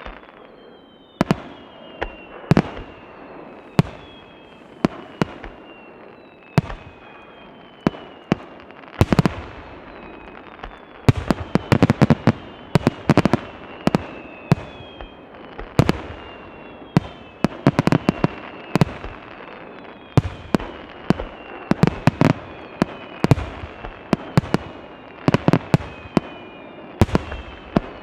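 Aerial fireworks display: a rapid series of sharp shell bursts, with several whistles falling in pitch. The bursts come thicker from about nine seconds in.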